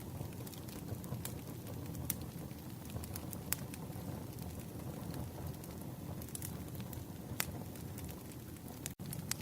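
Campfire crackling: a steady low rumble of burning wood with scattered sharp pops and snaps. The sound cuts out for an instant near the end.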